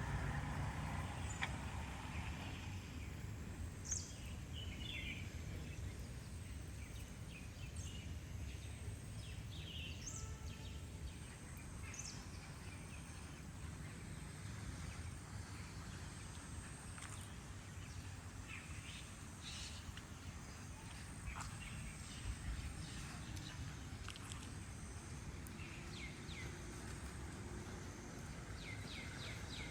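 Birds chirping now and then, in short scattered calls, over a steady low rumbling background noise.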